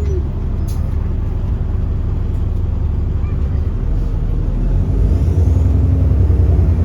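Alexander Dennis Enviro400 double-decker bus engine running steadily under way, pulling harder and getting louder from about five seconds in.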